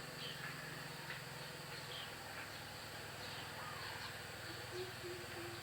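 Wild forest birds calling with short, scattered high chirps and a brief falling whistle, over a steady low drone. A run of low, evenly spaced notes starts near the end.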